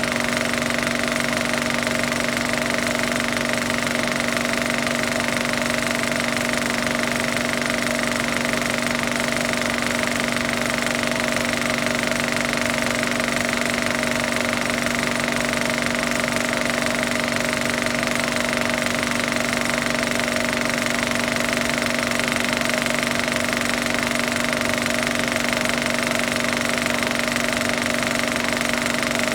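A machine running steadily with a fast, even rattle and a constant hum, unchanging throughout.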